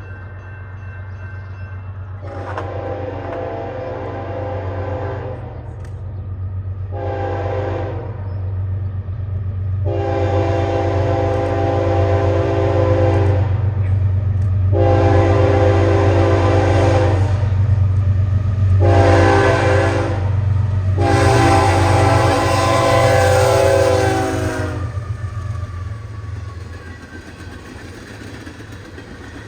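Locomotive air horn sounding a series of chord-like blasts, mostly long with two short ones between, over the low rumble of an approaching train that grows louder and then fades near the end.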